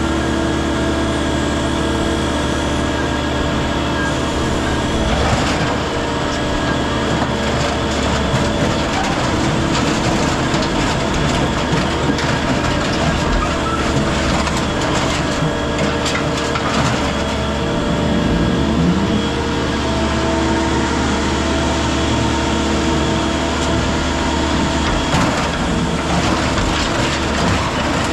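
Heavy scrap-yard machinery running steadily with a constant engine hum, with scattered metal knocks and clatter.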